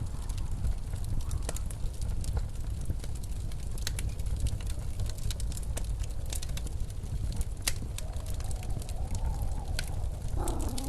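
Wood fire crackling in sharp, scattered pops over the steady low rush of blizzard wind. A faint wavering tone rises in the last few seconds.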